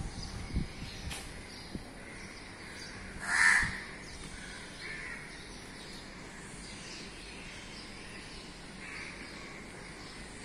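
A bird calling outdoors: one loud, short call about three and a half seconds in, followed by a few fainter calls.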